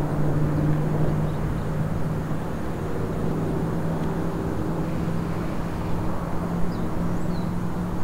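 A vehicle engine running steadily with a low hum that drifts slightly higher in pitch, with a few faint high chirps near the end.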